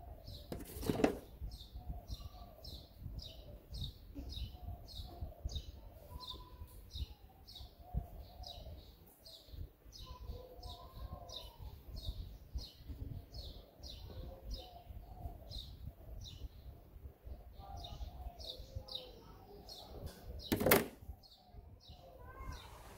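A bird chirping over and over at a steady pace, about two short high chirps a second. Two sharp knocks stand out, one about a second in and one near the end.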